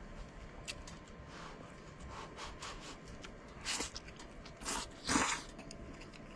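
A person eating stir-fried rice noodles: light clicks and chewing, with three short slurps between about four and five and a half seconds in.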